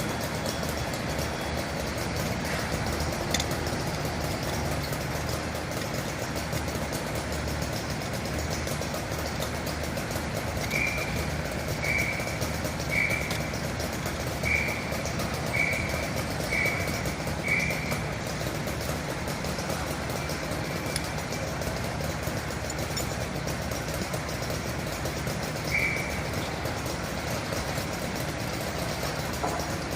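Fire truck engine idling steadily, with a run of short high beeps about once a second for several seconds and a single beep later on.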